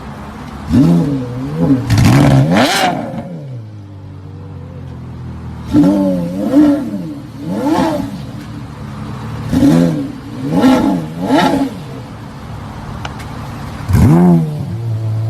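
Porsche Carrera GT's naturally aspirated V10 blipped repeatedly while standing: about ten quick revs that rise and fall in pitch, in short clusters, with the engine settling back to a steady idle between them.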